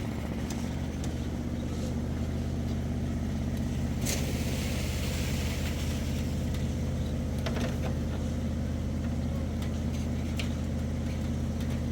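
An engine running steadily at an even speed, with a few light knocks and a brief hiss over it about four seconds in.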